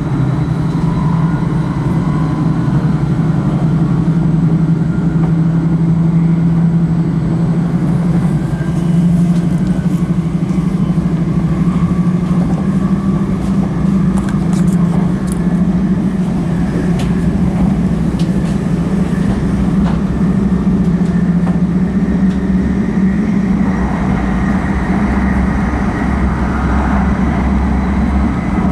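Steady running noise heard inside the cabin of an E5 series Shinkansen travelling at speed: a constant low hum and rumble, with a few faint clicks in the middle. The low rumble deepens in the last few seconds.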